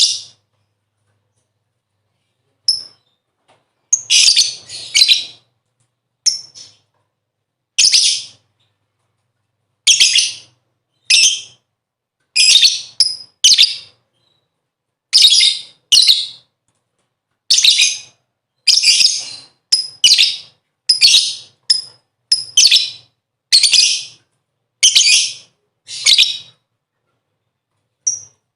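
A lovebird giving short bursts of loud, high-pitched chattering calls, about one burst every second or so, some doubled, with silence between them. This is a pancingan (bait) call recording, used to set other lovebirds calling.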